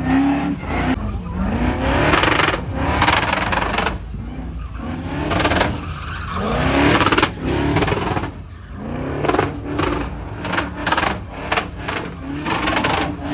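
Truck engine revved hard again and again, each rev a rising pitch, over a steady rushing hiss.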